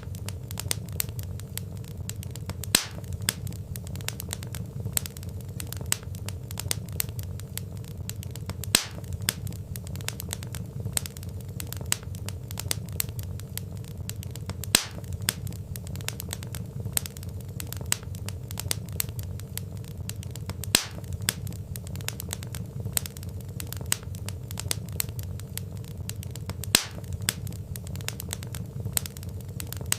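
Wood fire crackling: dense small crackles and snaps from burning logs over a low steady rumble, with a louder pop about every six seconds.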